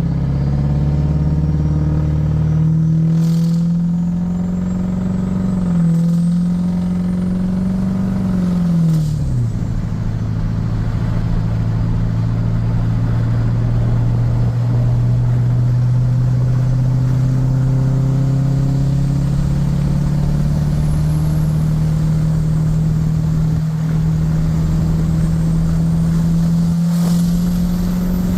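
Ford F-250's 6.4 Powerstroke diesel V8, converted to a single S369 turbo, running while the truck drives, with the exhaust cackle. A faint turbo whistle rises and falls over it. The engine note drops about nine seconds in, then slowly climbs again.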